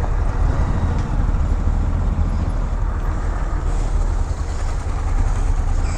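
Steady motorcycle ride noise: wind rush with a heavy low rumble on the microphone over the running engine of a 125cc Honda Grom.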